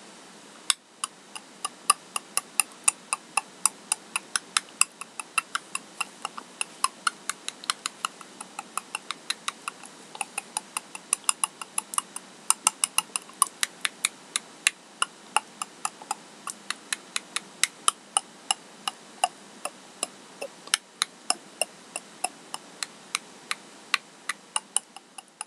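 A puppet clicking: a long run of sharp, irregularly spaced clicks, about three a second, over a steady hiss.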